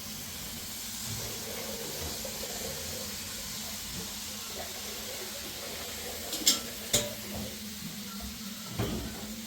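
Food sizzling steadily in a cooking pan, with two sharp metal clinks of a utensil about two-thirds of the way in and a soft knock near the end.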